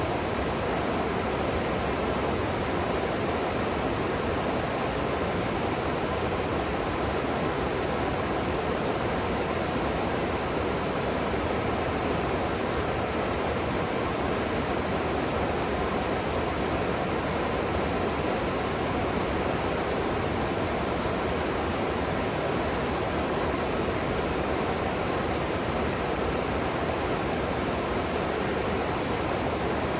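Steady rush of flowing river water, an even hiss with no separate splashes or changes.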